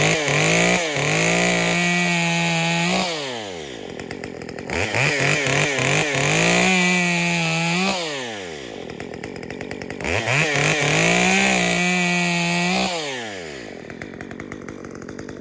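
Stihl MS 194T top-handle chainsaw, in stock form, warming up. Its two-stroke engine is revved to full throttle and dropped back to idle three times, each rev held for a couple of seconds.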